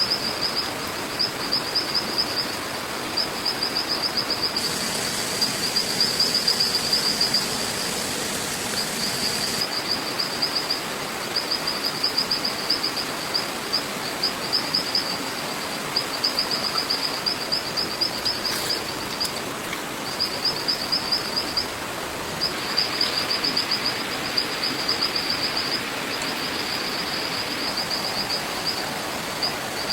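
High chirping trills from forest wildlife at one steady pitch, repeated in runs of one to two seconds with short gaps, over a steady outdoor hiss.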